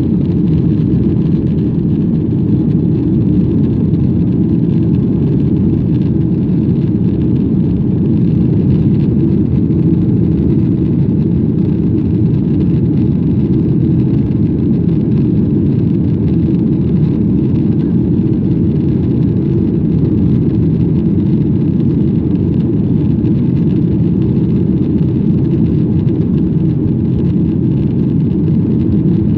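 Airplane cabin noise during takeoff: a loud, steady low rumble of engines and rushing air, unchanging in level.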